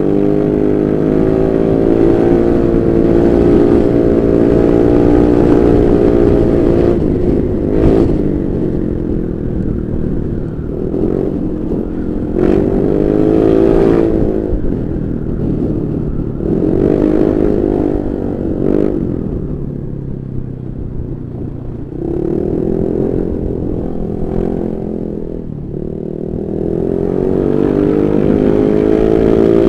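Honda Vario 125 scooter's single-cylinder engine through an aftermarket Pro Liner racing exhaust, revved up and eased off over and over, its exhaust note rising and falling in pitch.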